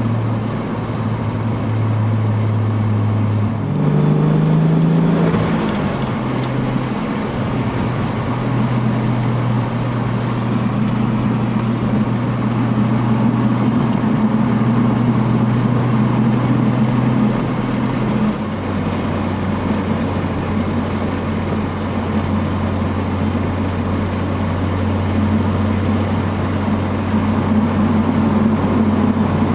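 1992 Toyota Supra Mk3's 7M-GTE turbocharged 3.0-litre inline-six running at steady low revs through an HKS Silent Hi-Power catback exhaust. The revs rise briefly about four seconds in and fall back. About two-thirds of the way through the pitch steps down to a lower, steady drone.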